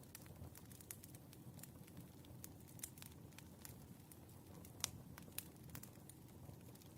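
Wood fire crackling softly: scattered sharp pops over a low steady rumble, with one louder pop a little before five seconds in.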